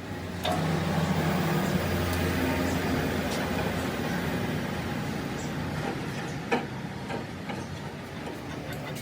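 A machine motor running steadily, with a couple of sharp metallic clicks.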